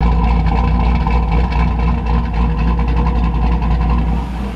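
Turbocharged LS1 V8 idling steadily with a deep, even hum.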